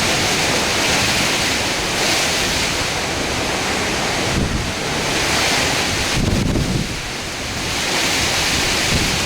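Strong hurricane wind blowing in gusts, with low rumbling buffets on the microphone a few times.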